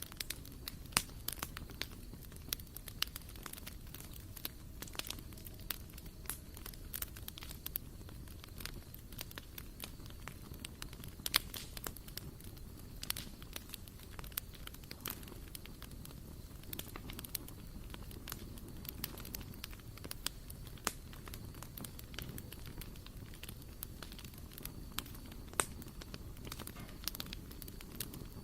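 Wood fire burning in a barbecue grill, crackling with frequent sharp pops of varying loudness over a low steady rush.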